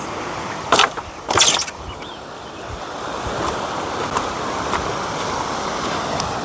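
Waves washing on a shore, a steady hiss, with two short scraping noises about a second in.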